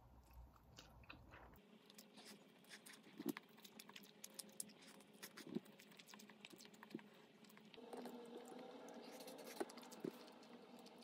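Faint chewing of a bagel sandwich with scrambled egg and avocado: a string of small crunches and mouth clicks.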